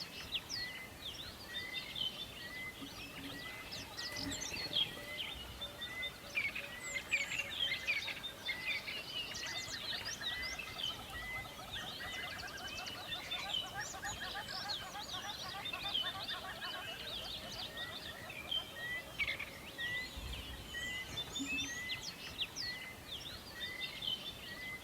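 A forest bird chorus: several birds chirping and singing at once, one of them repeating a short note at a steady pace. A fast, lower trill joins in the middle.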